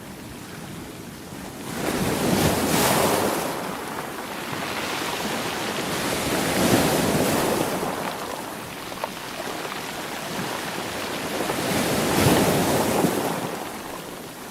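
Ocean waves breaking and washing up on a shore. Three waves surge in, one about two seconds in, one near the middle and one near the end, each swelling and then fading back into a steady hiss of surf.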